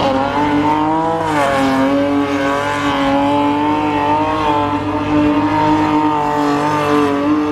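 A car engine held at high revs, its note steady with small wavers and a slight dip about a second and a half in, over a hiss of spinning tyres.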